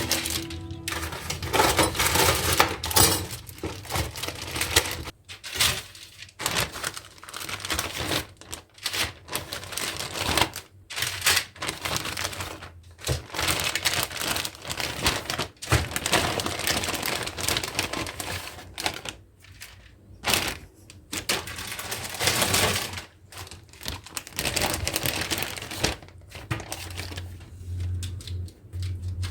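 Rapid crinkling and clicking from food being prepared by hand, with brief pauses every few seconds.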